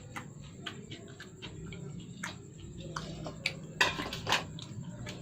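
Close-miked eating sounds: chewing and wet mouth clicks at an irregular pace, with two louder bursts about four seconds in.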